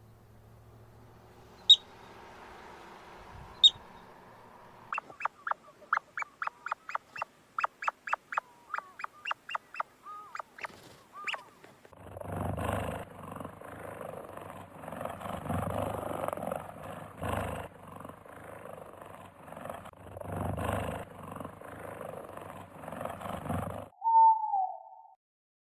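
A run of animal calls: a few faint high chirps, then a fast series of short sharp calls, then a long stretch of rough, noisy calling that comes in pulses every second or two.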